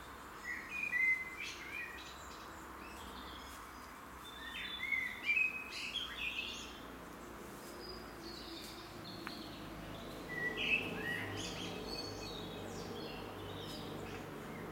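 A songbird singing in short warbled phrases, three bouts with pauses between them, over a steady background hiss.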